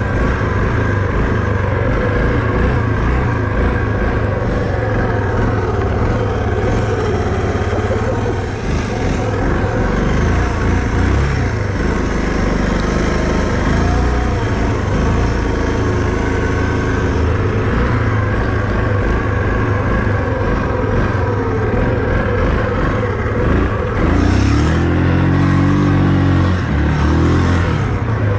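Vehicle engine running steadily under load, then revving up and down several times near the end.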